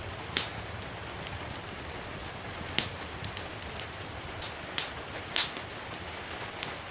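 Steady hiss of falling rain with a wood fire crackling, giving sharp, irregular pops about once a second.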